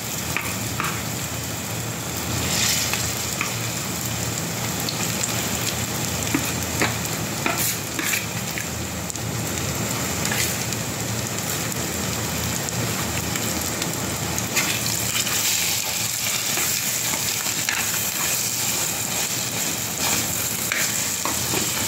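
Ground urad dal paste with garlic, green chilli and cumin sizzling steadily in hot oil in a kadhai, with a spatula scraping and ticking against the pan as it is stirred. The filling is being roasted to drive off its moisture.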